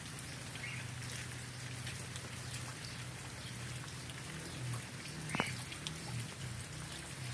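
Steady rain falling, an even hiss of drops, over a faint low hum. A sharp single tick comes about five seconds in, and a couple of short, faint high chirps are heard.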